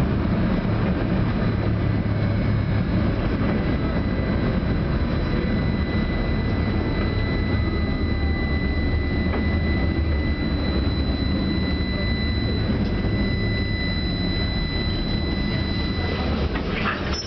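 Tram running along the track, heard from inside the passenger car: a steady rumble of wheels and running gear with a steady high-pitched whine over it. The whine stops near the end, and a few clicks follow.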